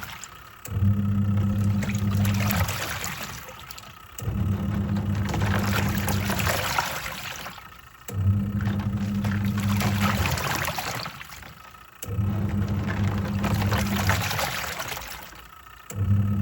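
Twin-tub washing machine's wash tub agitating a load: the motor hums for about two seconds, stops while the water sloshes and dies down, then starts again, about every four seconds. The stop-and-restart rhythm is the pulsator reversing direction in the wash cycle.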